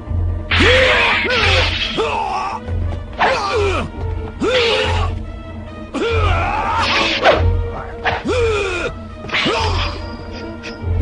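Cartoon sword-fight soundtrack: fighters' shouts and grunts with sharp clash and impact effects, repeating about once a second over dramatic background music.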